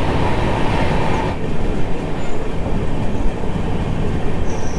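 Passenger train running at speed, the wheels rolling on the rails in a loud, steady rumble. A thin, steady whine rides over it and stops about a second in.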